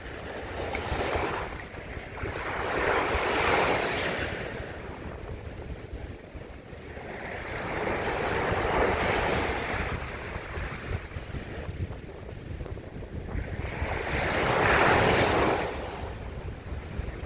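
Sea surf: three waves break and wash up, each swelling and fading, about six seconds apart, with wind rumbling on the microphone underneath.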